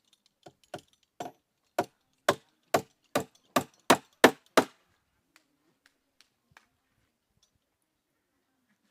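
A run of about eleven sharp knocks that come quicker and louder, followed by a few faint taps.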